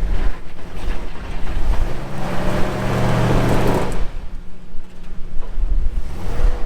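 Wind buffeting the microphone with a low rumble throughout. A vehicle engine runs under load for about two seconds in the middle, then drops away.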